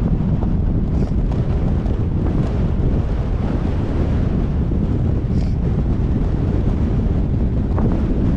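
Wind buffeting the microphone of a moving GoPro Hero8 on a bike ride: a steady, loud, low rumble with a few faint ticks.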